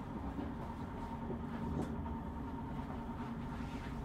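PKP Intercity passenger train running along the line, heard from inside the carriage: a steady rumble and hum of wheels on rail with a faint steady whine, and a light click about two seconds in.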